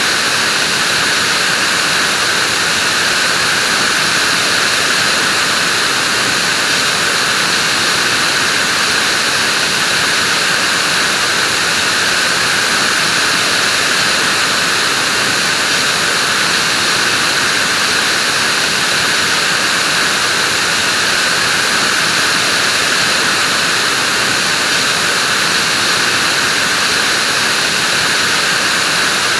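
Vacuum cleaner running steadily, a constant whooshing motor and airflow hum with no change in pitch or level.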